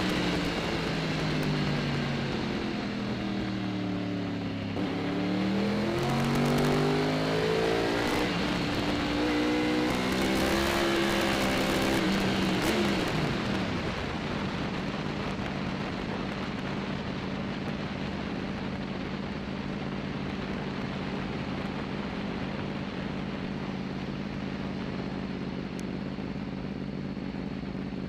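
Superbike's engine heard from an onboard camera: its note falls and rises with the throttle for about the first thirteen seconds, then settles to a steady idle.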